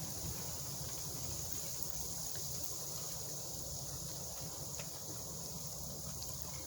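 Steady wind in a snowstorm: a low, even rumble with a faint hiss and no distinct events.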